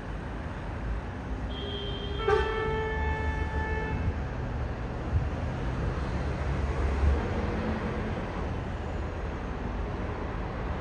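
Jet noise from a British Airways Boeing 777-200ER passing overhead: a steady, deep rumble that swells a little through the middle. About a second and a half in, a horn-like toot with a sharp click sounds for roughly two seconds over the rumble.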